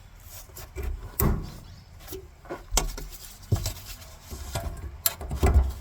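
Irregular knocks, clicks and rubbing from parts and trim being handled and fitted, with a cluster of louder knocks near the end.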